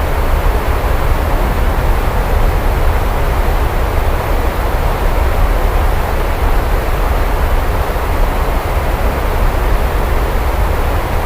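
Steady heavy rain, an even hiss with a constant deep rumble underneath; no single thunderclap stands out.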